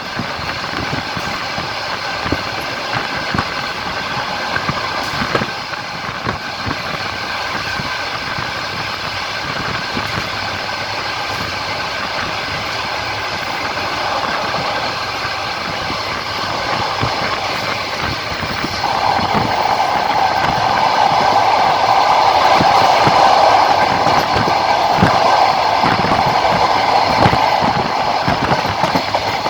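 Passenger train running along the line, heard from inside a carriage at the window: steady rolling noise with the wheels knocking over rail joints. The rolling noise grows louder about two-thirds of the way in.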